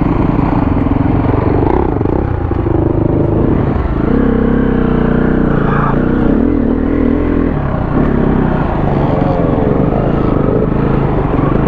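KTM 350 four-stroke single-cylinder dirt bike engine running on the trail, its revs rising and falling with the throttle. A steady higher pitch is held for a few seconds near the middle, then drops.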